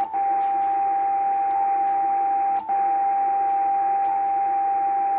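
A Yaesu FT950 transceiver's receiver puts out a steady, loud single tone over receiver hiss, with no antenna connected. The tone is broken by a short click and dropout twice. It is an unexplained background tone that turns up on most of the bands.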